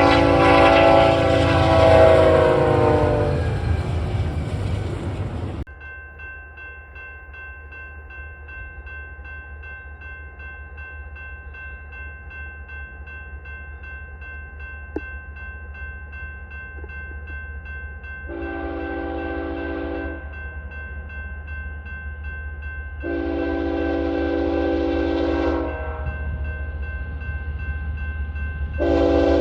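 Diesel locomotive air horn sounding a multi-note chord: a loud blast that cuts off suddenly about six seconds in, then over a steady low hum the freight train's horn sounds two long blasts and starts a short one near the end, the grade-crossing pattern of a train approaching.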